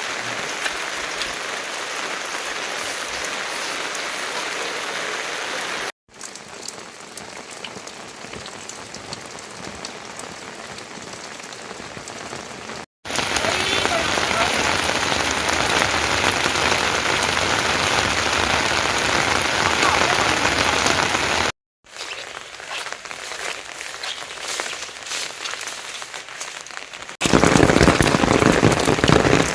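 Rain falling steadily, in several short clips cut together: its loudness jumps up or down at each cut, every six to eight seconds, and it is loudest in the last couple of seconds.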